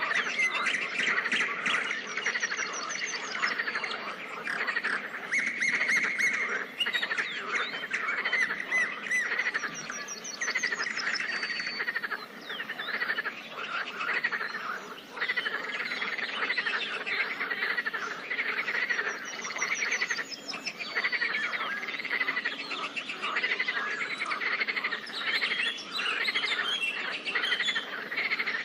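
Pond chorus of many frogs calling together without a break, with birds calling over it and short high trills now and then.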